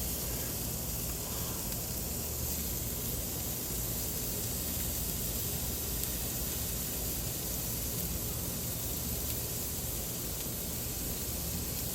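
Steak skewers sizzling on a grill: a steady, even hiss.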